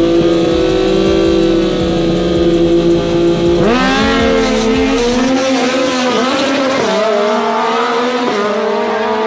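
Superbike engines running at high revs on a race track: a steady high engine note, which about four seconds in gives way abruptly to several engine notes that rise, dip and waver.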